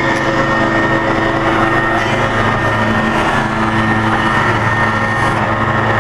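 Balestrini contour tenoning machine running: a loud, steady drone of electric motors and spinning cutter heads, with a constant whine on top.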